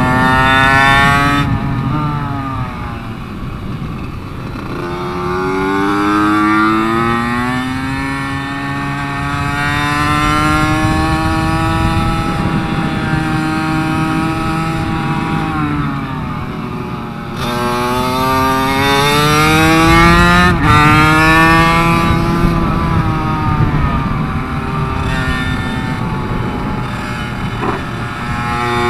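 Small single-cylinder race minibike engine ridden hard on track, its pitch climbing through the revs and dropping away several times with shifts and braking. The team say the bike feels like it is starving of fuel.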